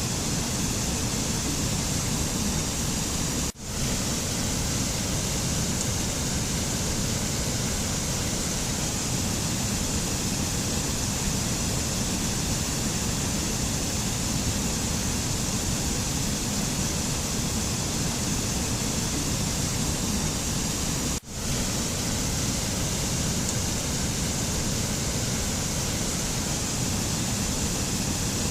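Steady rushing noise of a mountain nature-sound ambience, with no tune in it. It drops out for a split second twice, about three and a half seconds in and again about twenty-one seconds in, where the recording is joined or looped.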